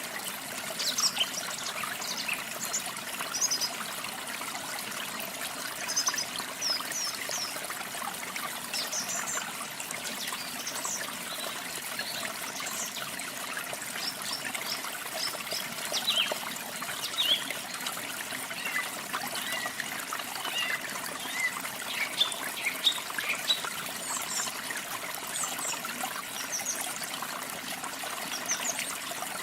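Steady splashing of a small waterfall with songbirds singing over it: many short, high chirps and trills come and go throughout.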